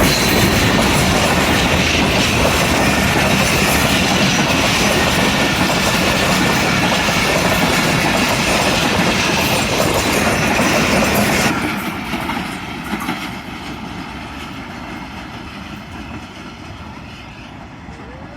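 A Pakistan Railways Awaam Express passenger train passing close by, its wheels clattering over the rail joints. The sound cuts off sharply about eleven seconds in, as the last coach goes by, and then fades away.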